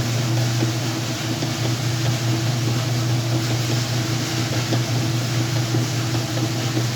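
Whirlpool washing machine running through its cycle with a load of blankets: a steady motor hum with a hiss over it.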